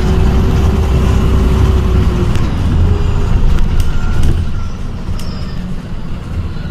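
Onboard sound of an ADL Enviro 400 hybrid double-decker bus on the move: a loud low rumble from its BAE Systems HybriDrive drivetrain (small diesel engine and electric motors) and the road, with a steady whine that stops about two seconds in.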